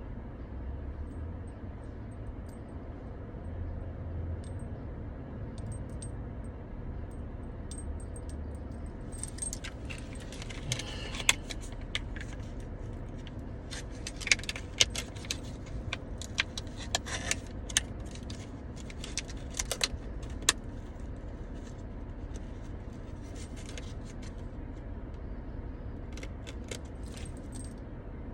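Small metal objects clinking and jingling in scattered bursts, busiest from about nine seconds in to about twenty, with a few more near the end, over a steady low rumble.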